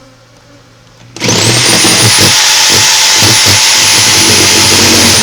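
An electric power saw starts up abruptly about a second in and runs at a steady, high-pitched whine, with irregular low knocks under it as the blade works the ceiling.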